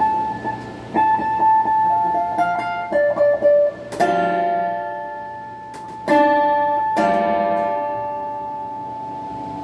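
Semi-hollow electric guitar, a Donner '72 Thinline clone, played through a phaser pedal and a Klon-clone overdrive into a Peavey Backstage Plus amp: a run of picked single notes, then three chords struck and left to ring and fade.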